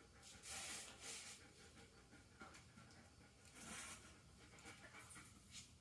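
Near silence with a few faint, brief rustling or scuffing sounds.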